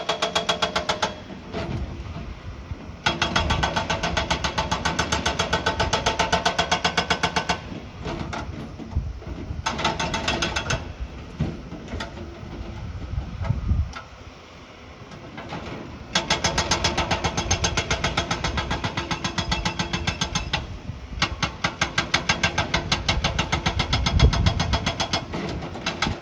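Heavy construction machine's diesel engine working. It comes in several loud spells of rapid, even pulsing, each a few seconds long, with quieter running between them.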